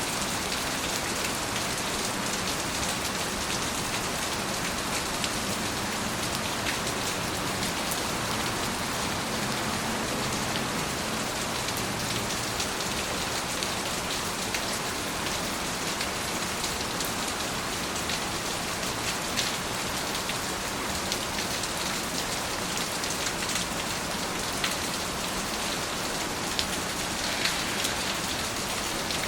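Steady heavy rain falling, a dense even hiss with many small drop ticks scattered through it.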